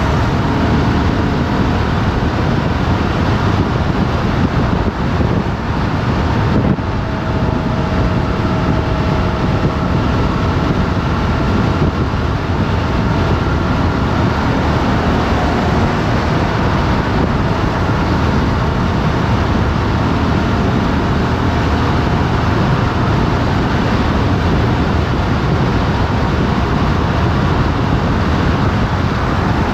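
Motorcycle riding on the road: a steady engine drone under heavy wind rush over the microphone, with a brief dip about six and a half seconds in.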